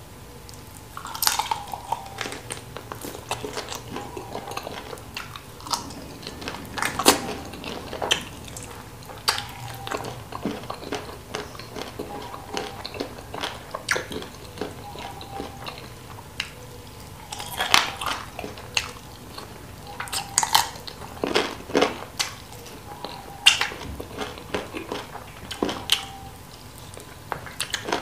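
Close-miked eating of spicy chicken feet: wet chewing, lip smacks and sucking, with irregular sharp clicks and crunches as the skin and soft bone are chewed. Now and then light knocks from pieces being picked out of a stone bowl.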